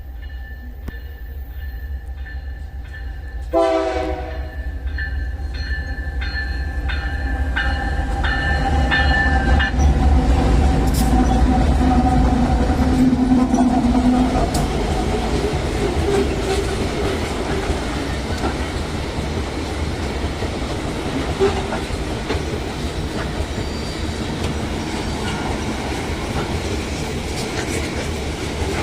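Iron-ore freight train hauled by GE ES44ACi diesel-electric locomotives: the locomotive horn sounds a series of short blasts starting about three and a half seconds in. The diesel engines then pass loudest around ten to fourteen seconds in, followed by the steady rolling clickety-clack of the loaded ore wagons.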